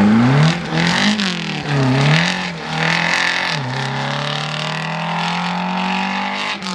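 Rally car engine at high revs, its pitch dropping and rising again several times in quick succession, then climbing steadily through a long pull from about halfway.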